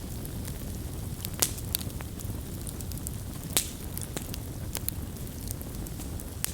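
Wood fire burning with a low steady rumble, and sharp crackles and pops at irregular intervals, the loudest about a second and a half in and again about three and a half seconds in.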